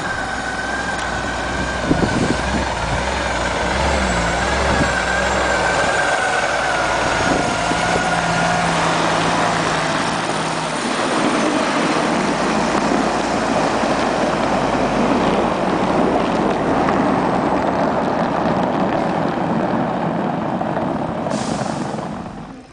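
Forestry truck with a hydraulic loader running hard: a loud, steady engine-and-machinery din with a high whine over the first half. A short hiss comes near the end, then the sound drops away.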